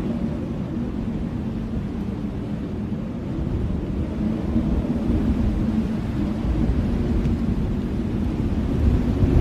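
Blizzard wind howling, a continuous deep rumble of wind noise that swells in gusts about halfway through and again near the end.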